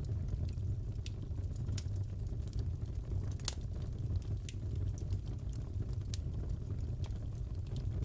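Wood fire crackling in a fireplace: a steady low rumble of flames with scattered small pops and snaps, one sharper pop about three and a half seconds in.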